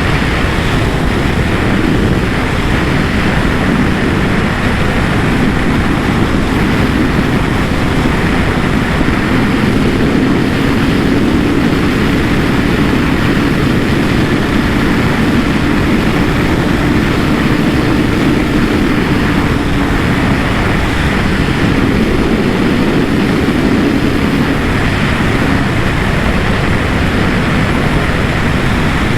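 Kawasaki ZX-10R inline-four engine running at steady speed, its note drifting a little, under heavy wind rush on the rider's microphone.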